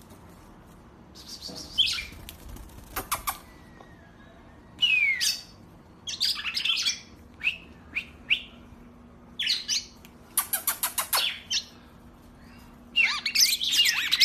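Songbird singing in separate bursts of chirps and short whistled phrases, with a quick rattling trill a little past the middle and a denser, louder run of song near the end.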